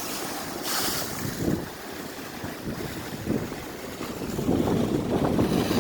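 Storm wind gusting and buffeting the microphone, with waves surging and washing; the gusts swell louder near the end.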